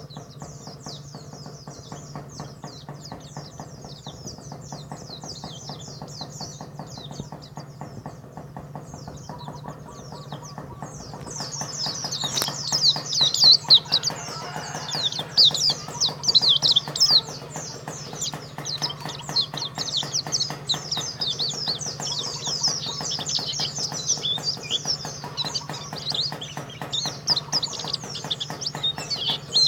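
Pleci (white-eye) songbird singing a long, rapid, chattering twitter of high notes. It is quieter for the first ten seconds or so, then louder and more continuous. A steady low hum runs underneath.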